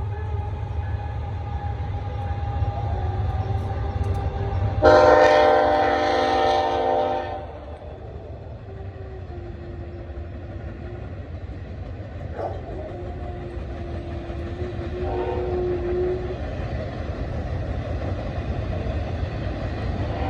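A diesel locomotive horn sounds one long blast about five seconds in, lasting about two and a half seconds, over the steady low rumble of a train rolling by. The rumble eases off after the horn.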